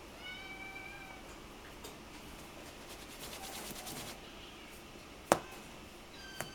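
Munchkin kitten mewing: one high mew about a second long at the start, a faint short mew in the middle and another beginning near the end. A single sharp tap a little after five seconds is the loudest sound.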